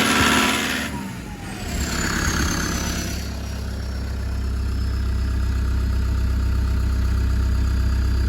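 2008 Toyota Dyna's common-rail diesel engine running just after starting, its revs dropping over the first couple of seconds with a high whine falling in pitch, then settling into a steady idle. It is running with the number 4 injector connected.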